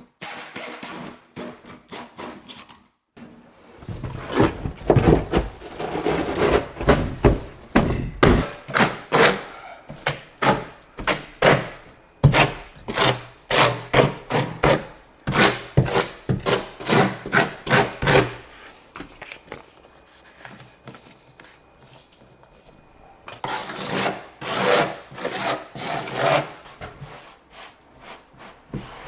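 Rhythmic rubbing, sawing strokes of a blade cutting out a 4.5-inch circle, about two strokes a second. The strokes come in two runs with a quieter pause between them.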